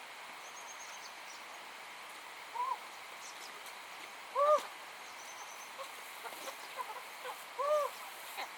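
Bird calls: three short, arching notes a couple of seconds apart, the middle one loudest, over a steady outdoor hiss, with faint high chirping twice.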